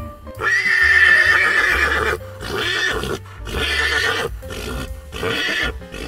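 An animal's loud, rough calls over background music: one long call starting about half a second in, then three shorter ones.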